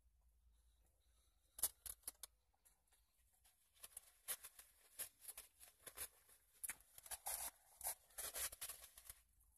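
Faint close-up chewing of a vegetable-loaded sandwich, heard as irregular crunchy clicks and crackles. A few clicks come about a second and a half in, and the chewing grows busier from about four seconds in until just before the end.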